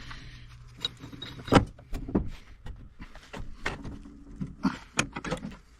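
Scattered metal clanks and knocks of a large pipe wrench being fitted to and worked on a sailboat's propeller-shaft stuffing box clamped in a vise; the loudest knock is about a second and a half in, with a cluster of smaller ones around five seconds.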